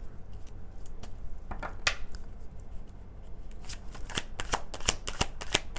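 Tarot cards being shuffled by hand: a few card flicks about one and a half seconds in, then a quick run of crisp card snaps, several a second, through the second half.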